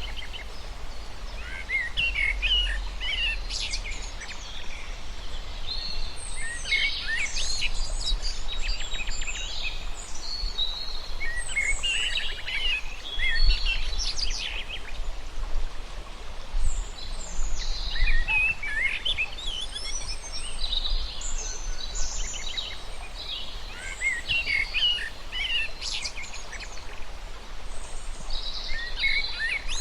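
Birds singing, a chirping, trilled song phrase repeated about every five or six seconds, over a steady low rumble.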